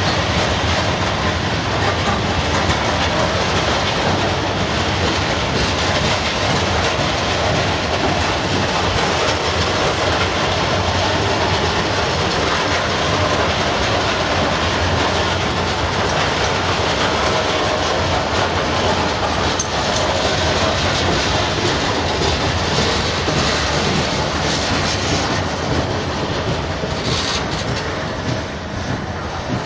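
Freight train of open box wagons rolling past, a steady rumble and clatter of wheels over the rails. The sound eases near the end as the last wagon passes.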